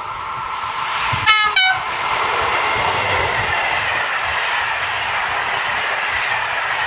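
A train passes at speed, giving two very short horn toots about a second in, then a loud, sustained running noise with a slowly falling whine.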